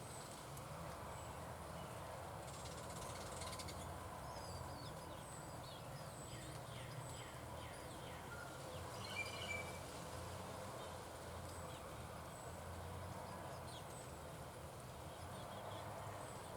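Faint outdoor ambience: small birds chirping, with short high notes repeating and a brief flurry of falling chirps in the middle, over a steady low background rumble.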